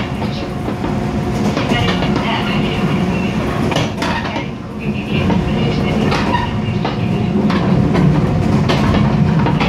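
Mugunghwa-ho passenger train running, heard from inside the carriage: steady noise of wheels on rails with occasional clicks.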